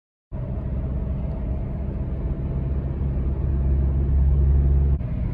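2008 Honda Civic's engine running at a steady pitch, heard as a car is driven; it cuts in abruptly, grows louder a few seconds in, then drops suddenly near the end.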